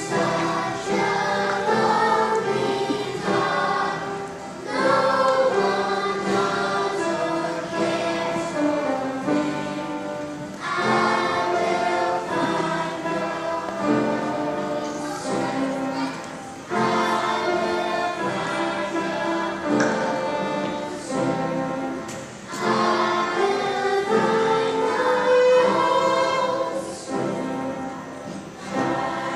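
A choir singing a song in held notes, its phrases breaking briefly about every six seconds.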